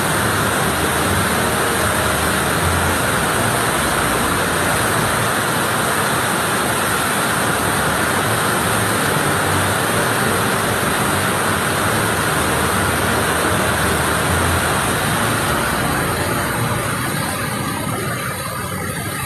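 Waterfall in heavy flow after a flood: a steady, dense rush of falling water that eases over the last few seconds.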